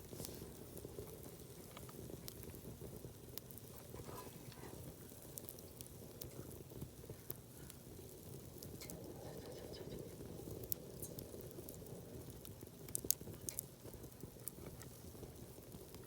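Wood campfire crackling: scattered sharp pops over a steady low hiss, with a brief cluster of louder pops about thirteen seconds in.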